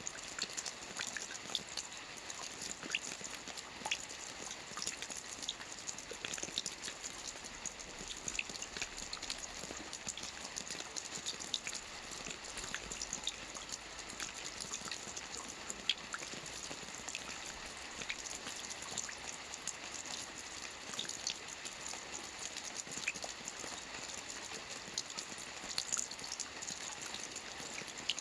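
Steady rain falling on a lake's water surface: a continuous hiss thick with the fine ticks of individual drops.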